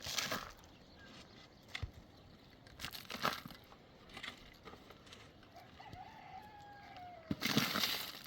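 A rooster crowing, one drawn-out call in the second half, with short bursts of rustling, scraping noise at the start, in the middle and loudest near the end.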